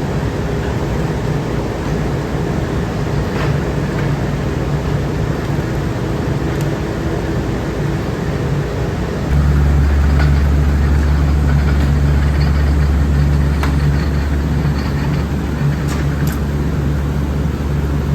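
Factory machinery running steadily, with a deeper, louder hum that sets in about halfway through and a few light clicks.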